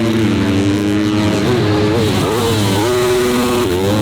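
Motocross bike engines racing, several at once, their pitch rising and falling as the riders rev and shift, over a steady low hum.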